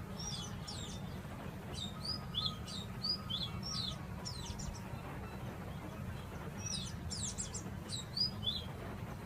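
Birds chirping in bursts of quick, high notes that slide down in pitch, with a lull of a second or two about halfway through before another burst. A steady low rumble runs underneath.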